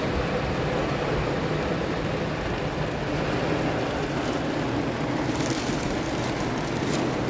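Steady rain on a car, heard from inside the cabin as an even hiss, with sharper drop ticks coming in from about four seconds in.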